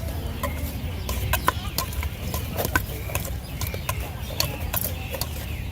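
Busy open-air market bustle: a low background rumble and distant chatter, with frequent sharp clicks and clatter of handling and utensils.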